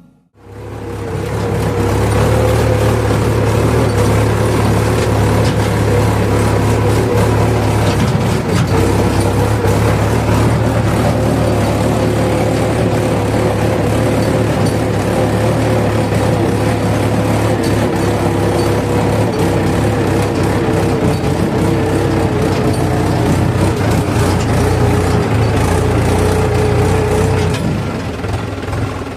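Diesel tractor engine running hard and steady under load, with a strong low drone and a wavering higher whine.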